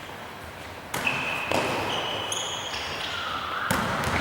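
Tchoukball play in a sports hall: two sharp ball impacts, about a second in and near the end, each followed by short high squeaks typical of shoes on the court floor.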